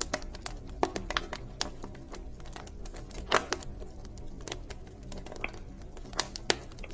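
Wood fire burning in a fireplace, crackling with irregular snaps and pops, the loudest a little past three seconds in, over a steady low background.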